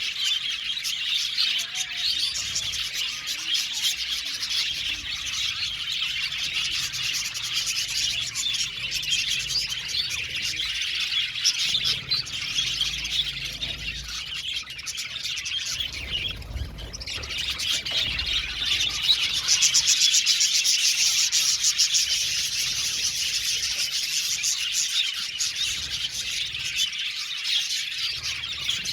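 A flock of budgerigars chirping and warbling together without a break. For a few seconds just past the middle the chatter is louder.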